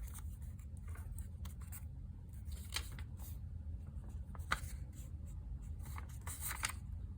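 Paper scraps being handled on a desk: scattered soft rustles and light ticks, over a steady low background hum.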